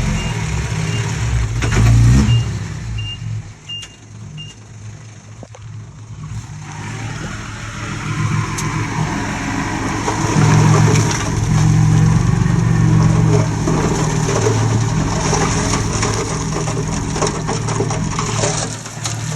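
Komatsu D20P bulldozer's diesel engine working, easing off a few seconds in and then pulling hard again for the rest, as the dozer pushes stone. A row of short high beeps sounds in the first few seconds.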